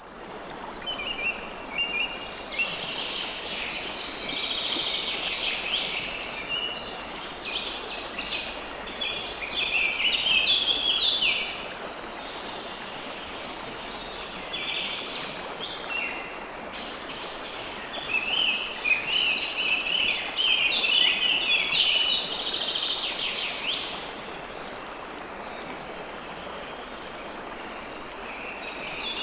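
River water flowing steadily with songbirds chirping over it. The birdsong comes in two long spells of rapid, overlapping chirps and trills, leaving stretches of just the rushing water around the middle and just before the end.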